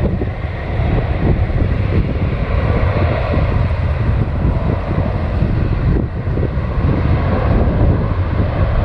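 Boeing 757's twin jet engines at takeoff thrust, a loud, steady rumble, with wind buffeting the microphone.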